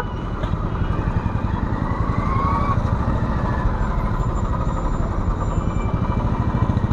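Motorcycle engines running in slow city traffic, a steady low rapid pulsing.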